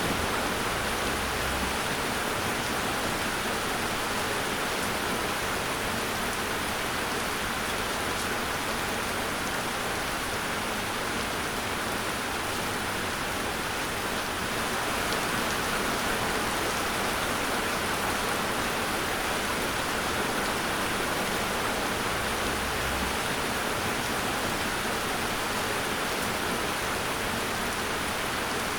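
Steady heavy rain with an even hiss.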